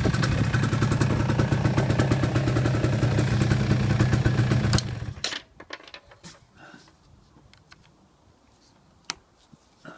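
Small quad bike engine running steadily, then cutting out abruptly about five seconds in. The rest is quiet apart from a couple of light clicks.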